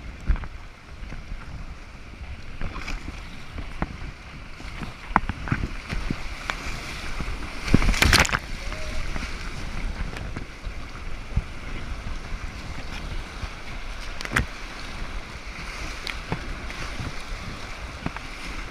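Kayak on moving river water: rushing water with scattered splashes and knocks, and one loud burst about eight seconds in.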